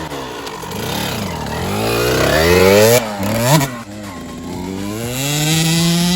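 Motocross dirt bike engine revving hard, its pitch climbing for about three seconds, dropping suddenly, then climbing again and holding a high steady note near the end.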